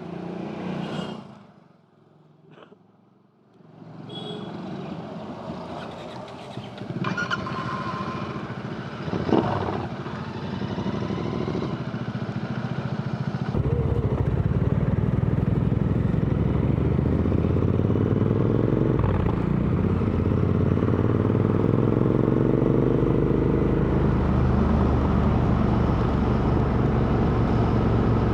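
Royal Enfield Interceptor 650's parallel-twin engine through aftermarket AEW exhausts, heard while riding. For the first half it is quieter, mixed with road sounds and a brief near-quiet moment. About halfway it jumps to a loud, steady exhaust note whose pitch climbs and then eases as the bike accelerates.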